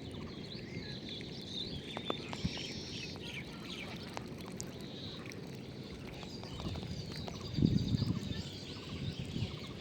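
Many small birds chirping and calling over a steady low rumble, with a louder low rumble about three-quarters of the way through.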